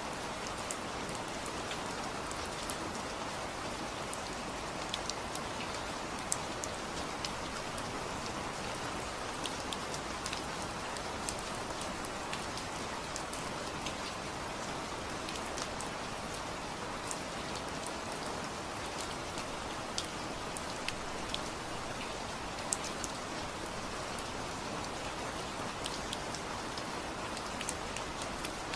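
Steady rain falling, with many scattered sharp drop ticks over an even hiss.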